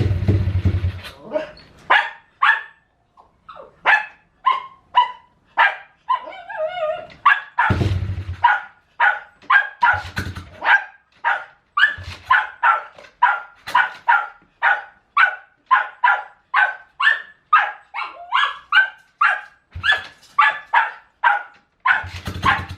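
A dog barking over and over, about two to three barks a second without a break. A few short low rumbles sound underneath.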